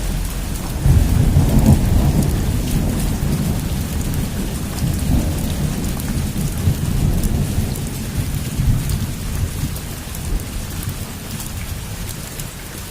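Heavy rain pattering steadily, with a long roll of thunder that swells about a second in and slowly rumbles away.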